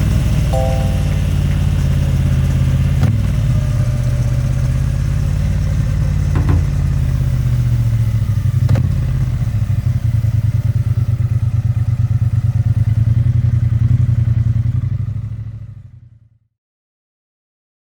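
Triumph Bonneville T100 parallel-twin engine and exhaust running steadily at an even pitch, then fading out to silence near the end.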